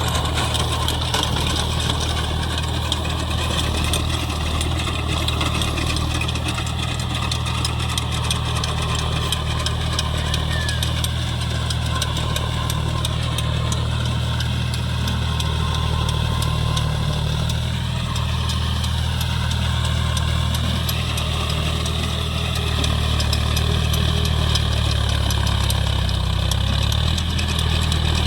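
John Deere 5050D tractor's diesel engine running steadily, working a rotavator through wet mud.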